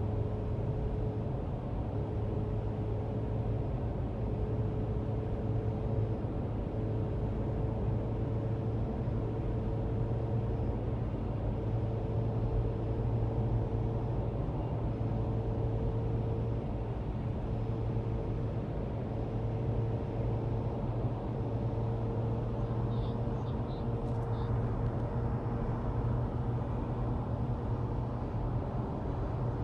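2013 Tesla Model S P85 driving: a steady low rumble of road and drive noise with a faint steady tone above it, where the owner hears a weird sound from the rear motor on accelerating or lifting off the pedal.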